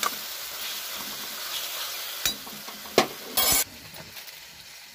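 Chopped tomatoes sizzling in hot oil in a metal kadai while a ladle stirs them. The ladle clinks sharply against the pan twice, a little after two and three seconds in. A brief loud burst of noise follows, and the sizzling then drops lower near the end.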